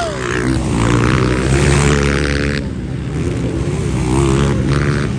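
Motocross dirt-bike engines of the 125–230 cc class revving hard, their pitch rising and falling as the riders work the throttle; the harsher, louder part cuts back about two and a half seconds in.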